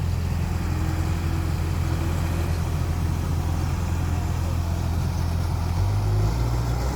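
Heavy diesel engine running steadily at a low, even pitch, its pitch shifting up briefly and then settling lower about six seconds in.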